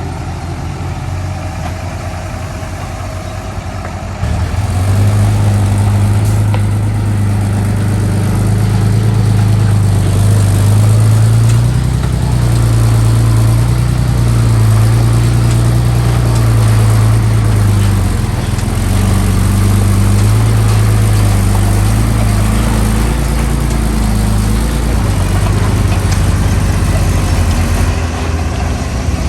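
Heavy diesel engine of earthmoving machinery running, steady at first, then about four seconds in growing louder and working hard, its pitch rising and falling repeatedly.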